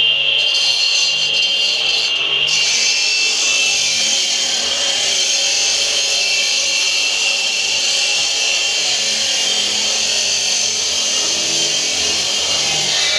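Power saw cutting stone, running steadily through the cut with a continuous grinding noise.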